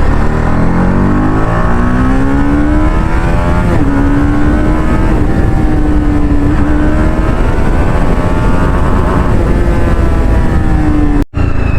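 Motorcycle engine accelerating through the first few seconds, then holding a steady cruising speed. Heavy wind rumble sits underneath, and the sound cuts out briefly near the end.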